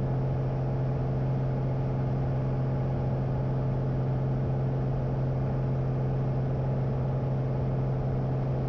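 Light aircraft's engine and propeller droning steadily in the climb, heard from inside the cockpit.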